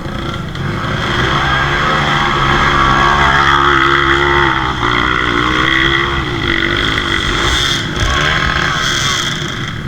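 Off-road trail motorcycle engine revving hard on a climb, its pitch rising and falling, loudest through the middle.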